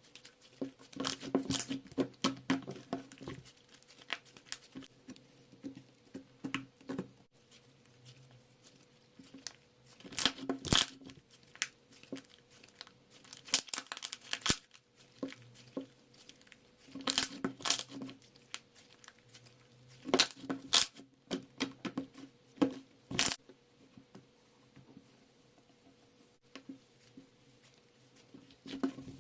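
Crinkling and tearing sounds in short bursts every few seconds, with light taps between them, from something being handled close by.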